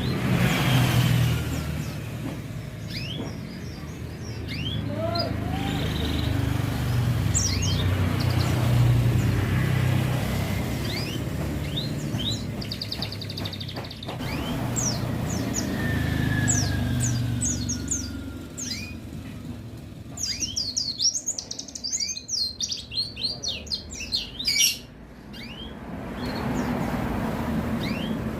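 White-eye (pleci) chirping in short, high calls over the low rumble of passing road traffic, with a dense run of rapid chirping about twenty seconds in.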